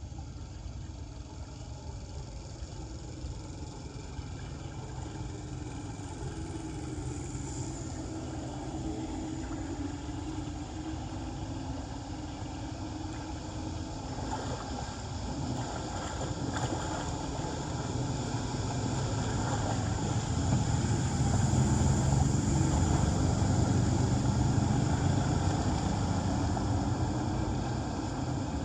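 A motor vehicle's engine running, growing louder over about twenty seconds and then easing off near the end.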